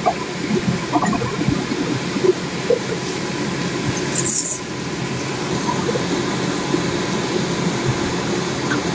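Steady mechanical rumbling noise with scattered light clicks and knocks, and a brief high hiss about four seconds in.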